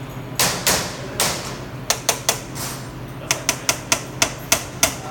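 Sharp knocks and clicks of hand tools working a pencil-type diesel fuel injector during disassembly. There are three knocks with a short ring in the first second and a half, then a run of quick clicks about three a second, over a steady low hum.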